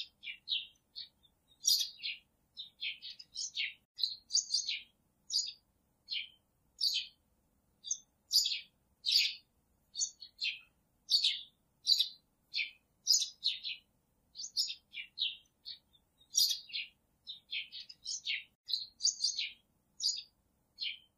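Birds chirping: a steady run of short, high chirps, many falling in pitch, two or three a second without a break.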